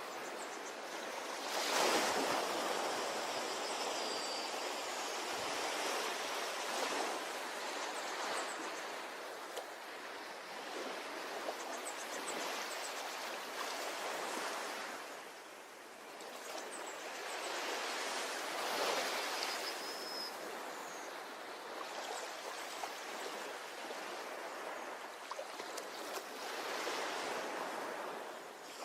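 Ocean waves washing onto a shore: a steady hiss of surf that swells into a breaking wave and falls away again every six to eight seconds.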